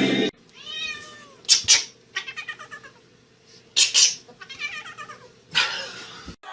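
Domestic cat meowing and yowling several times in drawn-out, wavering calls, broken by short, loud, noisy bursts.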